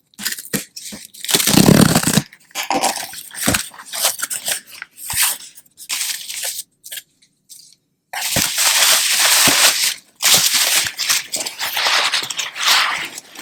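Cardboard and plastic packaging being torn open and handled, in irregular crinkling, ripping bursts, heaviest in the last five seconds. A louder, fuller burst comes about two seconds in.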